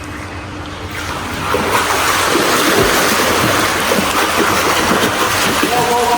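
Water splashing in a swimming pool as a beginner swimmer kicks face-down. The splashing grows louder about a second and a half in and keeps up steadily.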